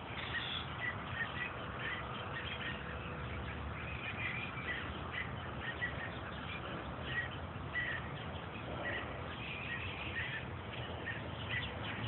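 Small birds chirping: short, high calls repeated several times a second.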